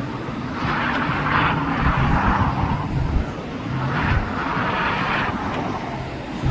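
Jet engines of an Airbus A330 airliner as it comes in to land, a steady rumble with a rushing noise that swells twice.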